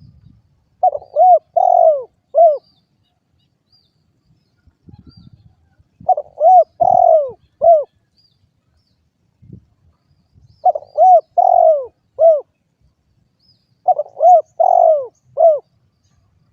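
Spotted dove (derkuku) cooing: four short phrases of low, curved coo notes, each about two seconds long, a few seconds apart.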